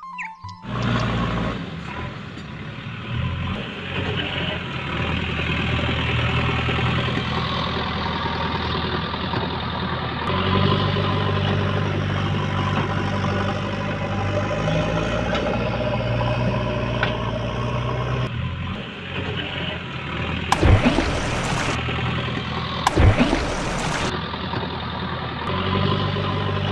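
Truck engine running steadily, its low hum shifting in level every few seconds, with two short, sudden louder bursts about twenty and twenty-three seconds in.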